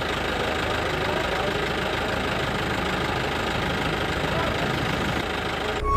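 Steady rumble of an idling truck engine, an engine sound effect laid over a toy fire truck, cutting off suddenly near the end.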